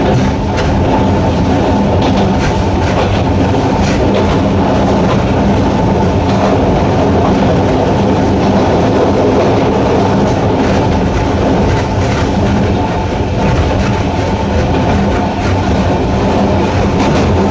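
Narrow-gauge Sangi Railway Hokusei Line electric train running steadily, its nose-suspended traction motors giving a constant low hum under the rumble of the wheels, with scattered clicks from the wheels over rail joints.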